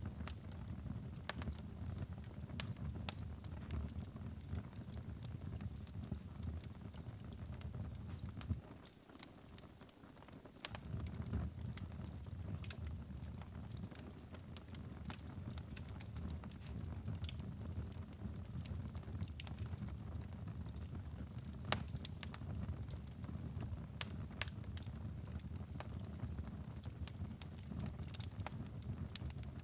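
Wood fire in a fireplace crackling, with frequent sharp pops over a steady low rumble of the flames. The rumble drops away for about two seconds about a third of the way in, leaving only the crackles.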